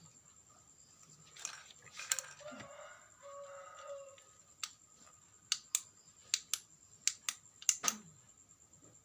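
A rustle of handling, then a run of about nine sharp clicks, like small hard parts being handled or snapped together.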